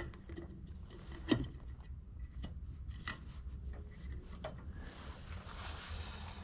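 A few sharp clicks and light knocks of small headlight parts being handled during a bulb change, the loudest about a second in, over a low steady hum.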